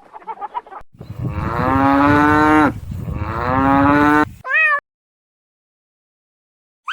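Cattle mooing: two long, steady moos, then a short call that bends up and down in pitch.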